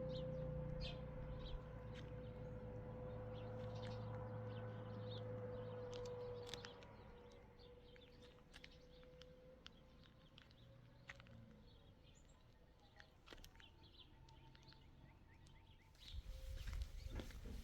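Small birds chirping now and then over a steady low hum that fades out about seven seconds in. A louder low rumbling noise starts near the end.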